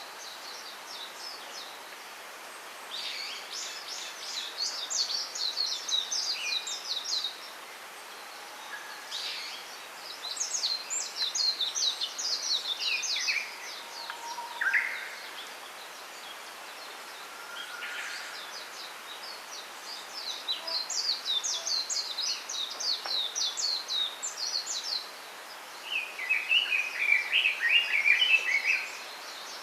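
Small songbirds singing in long, rapid, high-pitched twittering phrases several seconds long, three times, with a lower, busier song from another bird near the end, over a steady hiss.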